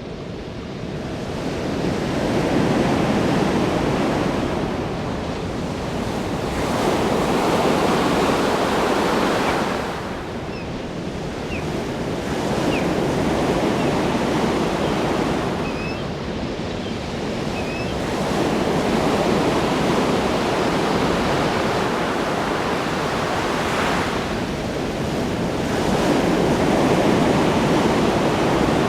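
Ocean waves breaking on a shore, the surf swelling and falling back about every five to six seconds.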